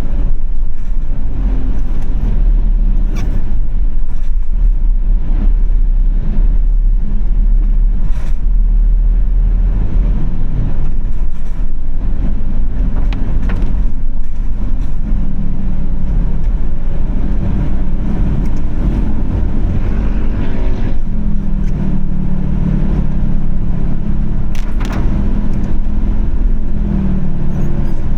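Car driving on wet city streets: steady engine and road rumble whose pitch shifts as it goes, with a few short sharp ticks scattered through.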